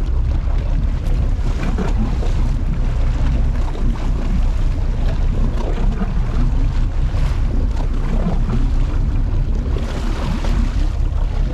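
Boat under way: a steady low engine rumble with wind and water noise over it.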